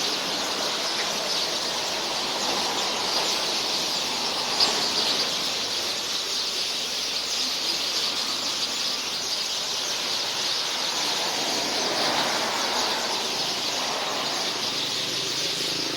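A large flock of birds in a tree calling all at once: a dense, continuous, high-pitched chatter and squealing.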